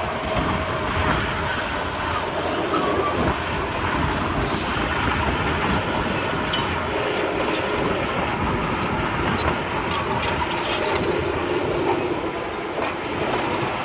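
Diesel engine of a Komatsu D31P crawler bulldozer running steadily under work, with scattered metallic clanks and clicks from the tracks and moving stone.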